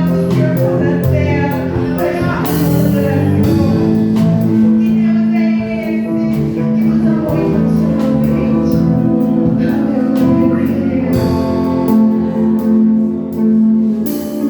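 Live worship band music: guitar and other instruments playing under singing voices, with a steady beat.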